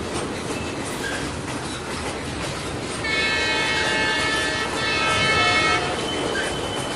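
Passenger train's coaches rumbling across a steel truss railway bridge. A multi-tone train horn sounds from about three seconds in and holds for nearly three seconds.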